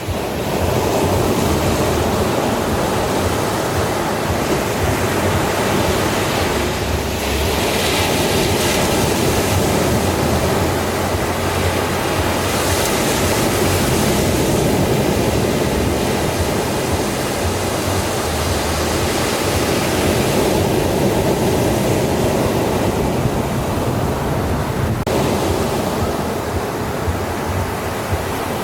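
Sea waves breaking on a shore: a steady wash of surf that swells and eases every several seconds.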